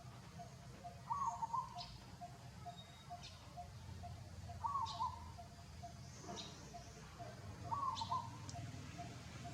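Birds calling outdoors: a short warbled call three times, about three seconds apart, over a faint note that pulses a few times a second, with brief high chirps in between.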